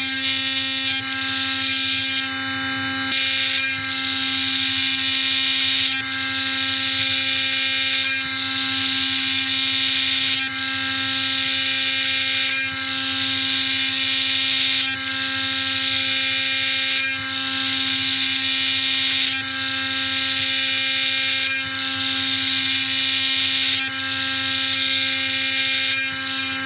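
CNC machining centre spindle running at a steady whine while the cutter mills a brass part. The high cutting noise breaks off briefly about every two seconds as the tool starts each new pass.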